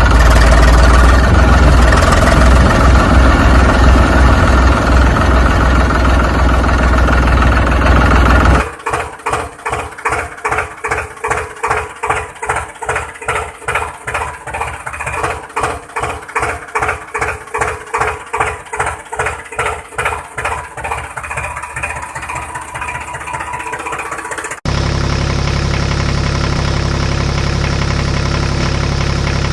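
Engine sounds in three cut-together stretches: a loud, dense running sound for the first third, then a rhythmic pulsing at about two and a half beats a second, then, from near the end, a steadier, even running sound.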